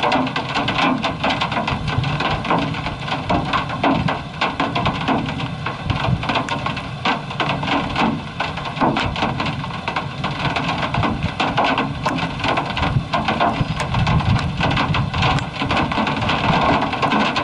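Heavy rain pelting a vehicle's body and windows, a dense, continuous patter of hits.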